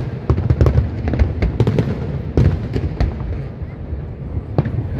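Aerial fireworks display going off: many sharp bangs and crackles in quick, irregular succession over a continuous low rumble.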